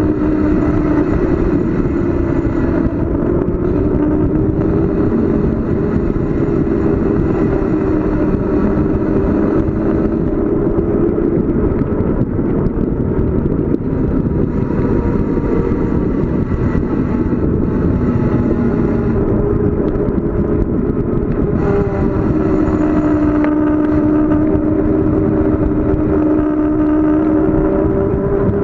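Wind rushing over the microphone of a bicycle coasting downhill at speed, with a wavering hum running through it.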